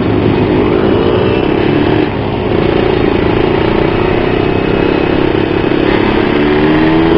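Yamaha RXZ 135cc single-cylinder two-stroke engine pulling under acceleration while riding. Its pitch climbs, drops suddenly about two seconds in as it shifts up a gear, holds steady, then climbs again near the end.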